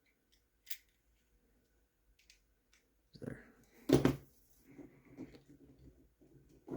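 Faint clicks and handling of small plastic RC truck parts on a bench, with one sharp knock about four seconds in.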